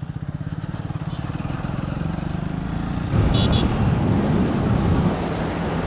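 Motorcycle engine running under way, with its firing pulses clearly heard; it grows gradually louder and steps up about three seconds in.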